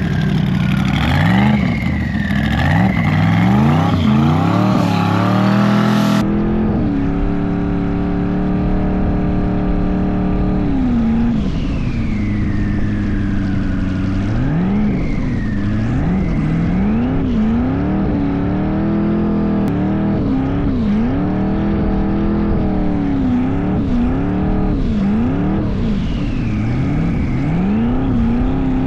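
LS V8 engine of a twin-turbo BMW E36 drag car revving up and falling back over and over, its pitch rising and dropping every second or two.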